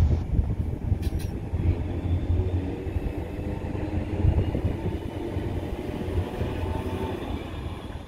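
Northern diesel multiple unit running past: low engine rumble and wheel noise on the rails, easing off gradually, with one brief click about a second in.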